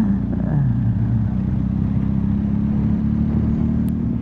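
BMW R1250GS Adventure's boxer-twin engine running on the move. Its pitch drops about half a second in, then holds steady.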